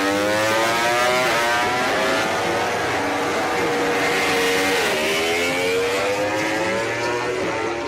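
MotoGP racing motorcycle engine at high revs, its pitch climbing steadily, dropping sharply about five seconds in and then climbing again.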